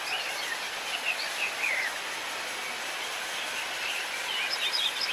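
Small birds chirping now and then over a steady background hiss: a flurry of short chirps in the first two seconds and again near the end.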